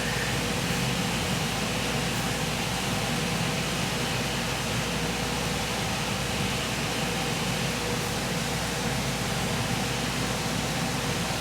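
Steady background noise: an even hiss with a low rumble and a faint steady hum, like a fan or ventilation running, with no distinct knocks or tool sounds.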